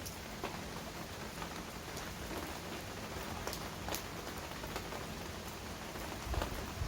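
Heavy rain falling steadily, with scattered sharp drips ticking through the hiss. A low rumble swells in near the end.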